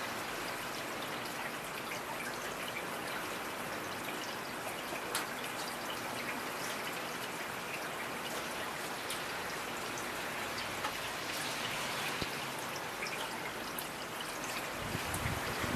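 Steady rain falling, with individual drops ticking and a trickle of running water. A low rumble starts just before the end.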